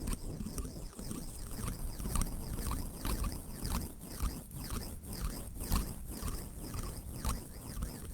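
Water lapping and trickling: an irregular patter of small plops and drips, several a second, over a steady low rumble.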